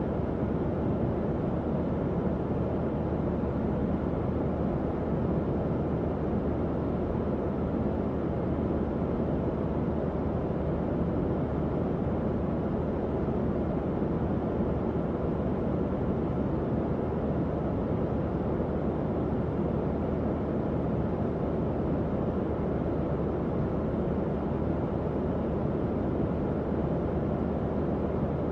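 Tower fan running steadily at a constant speed: an even airy whoosh with a low motor hum underneath.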